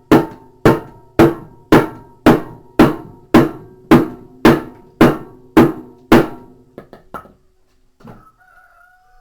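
Hammer blows on a metal part of a washing machine, a steady series of about a dozen sharp ringing strikes roughly two a second. They stop a little past six seconds in, followed by a few lighter taps.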